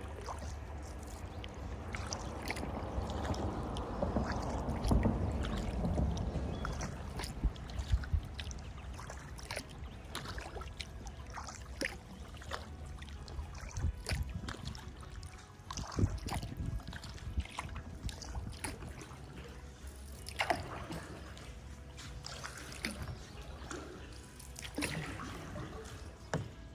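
Kayak paddle dipping in the river, with water splashing and dripping off the blade, over a steady low rumble.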